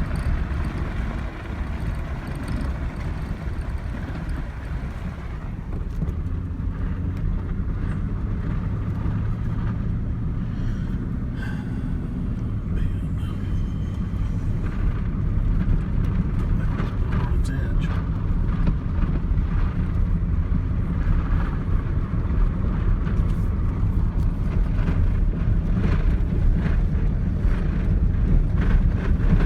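Steady low rumble of a vehicle driving on a road, getting louder about halfway through.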